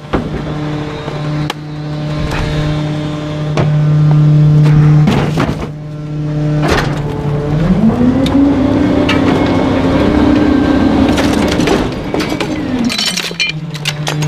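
Garbage truck's engine running steadily, then revving up about halfway through and holding there as the hydraulic packer cycles, before dropping back near the end. Sharp cracks and crunches of bulky items being crushed come throughout, thickest just before the engine drops back.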